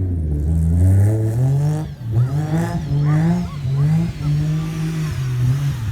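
Highly tuned 2.6-litre straight-six drag-racing engine with one large turbo, revving as the car is driven. The pitch climbs over the first two seconds, drops briefly, then rises and falls several times.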